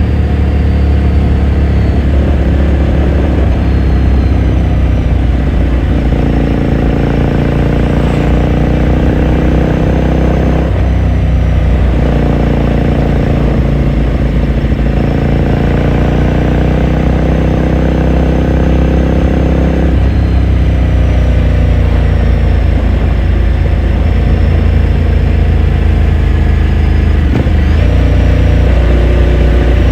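2018 Ducati Scrambler Sixty2's 399 cc air-cooled L-twin on the move through its raw exhaust. The engine note rises and falls as the bike pulls through the gears, with brief dips at the shifts several times.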